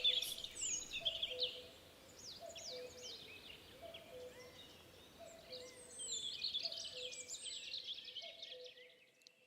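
Birds singing in spring woodland: quick, high chirping songs in two bursts, over a low two-note call that falls in pitch and repeats about every second and a half.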